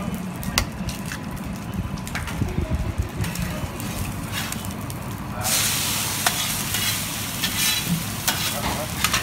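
Murtabak egg filling frying on a hot flat iron griddle: a sizzle that turns suddenly loud about five seconds in, with taps and scrapes of a metal spatula on the griddle and a steady low hum beneath.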